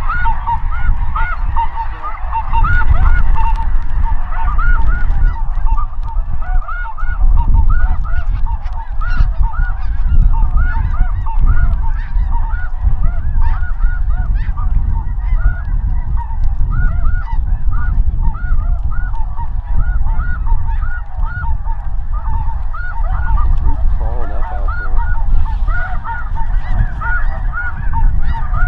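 A large flock of snow geese calling constantly, many short overlapping honks and yelps at once, over a steady low rumble.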